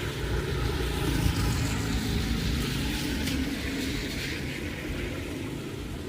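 Heavy rain falling steadily, with a low continuous rumble underneath.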